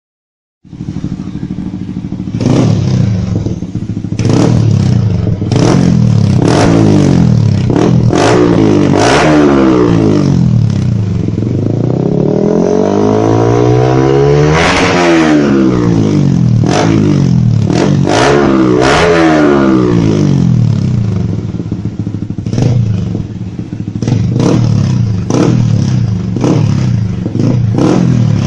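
Yamaha R15 V3's 155 cc single-cylinder engine through a Key Speed full-system aftermarket exhaust (Leovince Cobra Black style), idling and revved in repeated quick throttle blips. Midway it makes one longer rev that climbs and falls. The sound starts about a second in.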